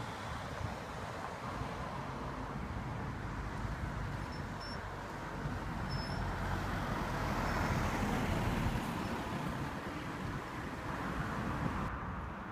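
Steady road traffic noise, swelling to its loudest about eight seconds in.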